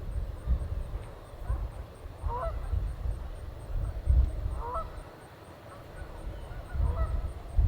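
Geese honking on open water: three short calls spread a couple of seconds apart, over a low, uneven rumble.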